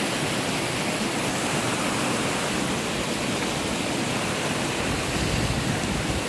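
Steady rush of flowing water in an irrigation channel, an even noise with no breaks.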